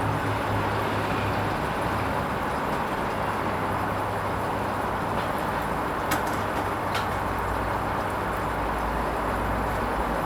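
Hoover Vision HVP16 washing machine running its Silks 30 programme: a steady mechanical hum, with two light clicks about six and seven seconds in. The low hum drops deeper near the end.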